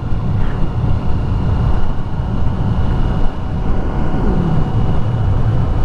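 Triumph 675 inline-three motorcycle under way: steady wind rush and rumble on the helmet microphone with the engine running underneath.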